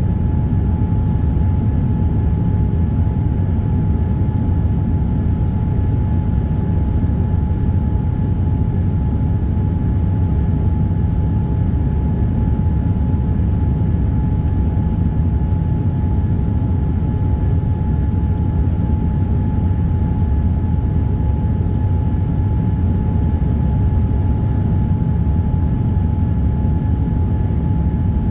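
Cabin noise inside a Boeing 787-9 airliner with Rolls-Royce Trent 1000 engines: a steady low roar of the engines and airflow, with a steady hum tone on top that does not change.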